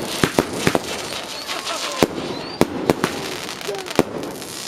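Fireworks display: a rapid, irregular string of sharp bangs, about eight clear ones, over continuous crackling from the bursting shells.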